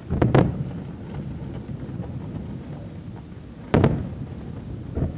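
Fireworks shells bursting: a loud double bang just after the start, another loud bang a little before four seconds in, and a fainter bang near the end.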